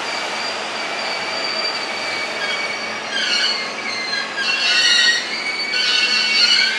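Electric commuter train running past, with a steady high whine and, from about three seconds in, wheels squealing on and off, loudest near the end.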